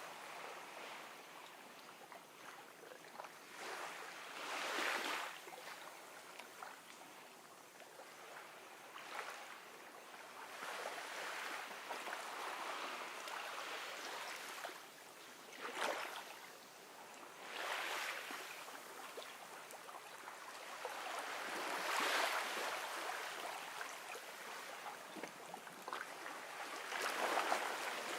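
Gentle ocean waves washing onto a shore: a continuous wash that swells and fades, with a louder surge every few seconds.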